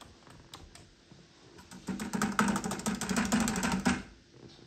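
A small mechanism runs for about two seconds, starting about two seconds in: rapid, even clicking over a steady low hum, then it stops suddenly.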